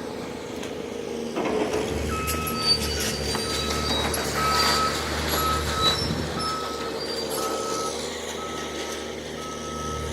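Reversing alarm on heavy demolition machinery beeping repeatedly, roughly once a second from about two seconds in, over the steady hum of a diesel engine. A few sharp knocks of rubble are heard among the beeps.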